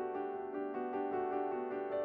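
Background piano music: a gentle melody of notes changing every fraction of a second.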